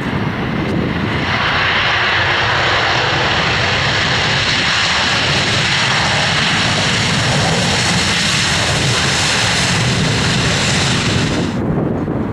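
Airliner engines running loud and steady: a broad rushing noise with a faint steady whine in it. It swells about a second in, and its upper part cuts off abruptly near the end.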